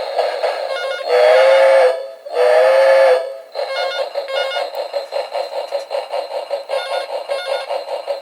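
Novelty steam-train telephone ringing: its ringtone is a recorded steam locomotive sound, with fast, even chuffing and two long whistle toots about a second and two and a half seconds in.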